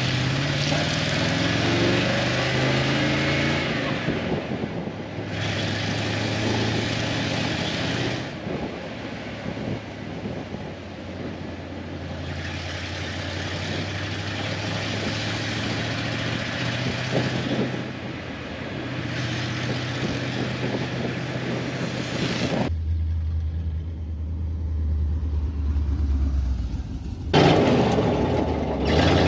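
1978 Chevrolet K10 pickup being driven: the engine's pitch climbs in steps near the start as it accelerates, under steady road and wind noise. Near the end the rushing noise drops away for a few seconds, leaving a low, steady engine hum, then returns.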